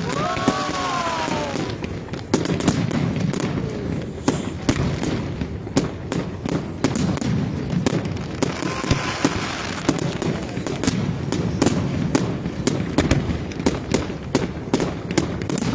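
Professional fireworks display: rapid bangs and crackles from aerial shells going off continuously, over a steady low rumble. Near the start a whistle falls in pitch.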